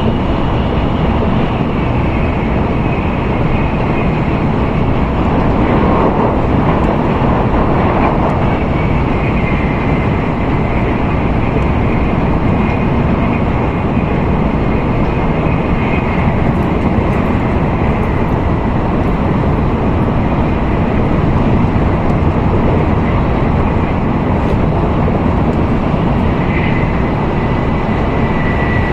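Steady running noise of an N700A Shinkansen train at speed, heard inside the passenger cabin: a dense, even rumble with a faint high whine over it.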